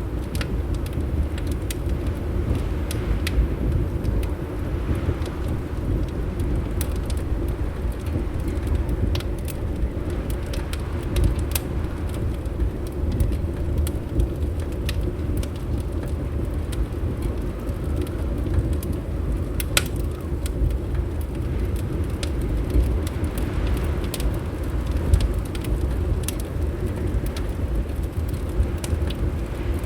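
Wood fire crackling, with scattered sharp pops (one stronger about twenty seconds in) over a steady low rumble of wind outside the windows.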